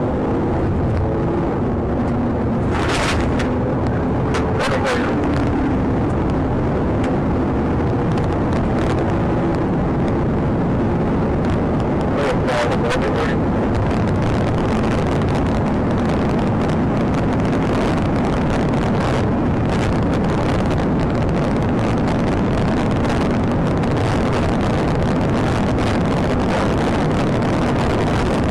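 Police car driving at high speed in a pursuit: a loud, steady rush of engine, tyre and wind noise. Brief clusters of clicks or knocks come a few seconds in, again about two seconds later, and near the middle.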